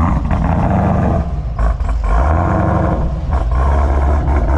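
2013 Chevrolet Camaro ZL1's supercharged 6.2-litre V8 just fired up by remote key-fob start, running loud with a deep exhaust note that dips briefly about a second and a half in, then runs steadily.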